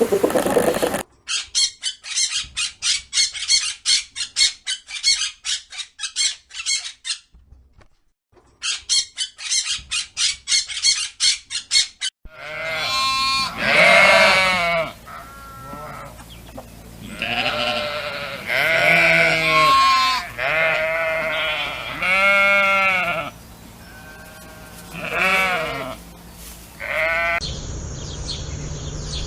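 Two runs of rapid, evenly repeated high-pitched bird chirps, followed by a long series of loud, quavering bleats from livestock. A steady high-pitched buzz starts near the end.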